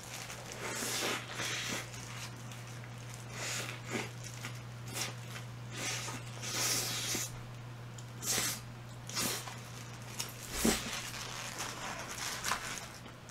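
Close-up eating sounds: irregular chewing, crunching and mouth noises, over a steady low electrical hum.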